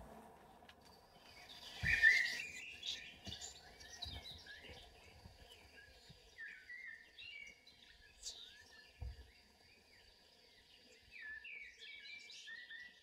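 Recorded birdsong used as a stage sound effect: faint, scattered chirps and short trills, loudest about two seconds in. There are dull low thumps at about two and nine seconds.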